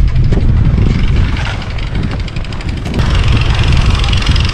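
Snow blower's small engine running steadily under a low rumble, with a hiss joining about three seconds in.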